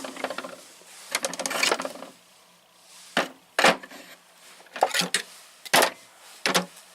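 Metal sockets clinking as they are handled in a tool box drawer: a short rattle about a second in, then a series of single sharp clacks a fraction of a second to a second apart.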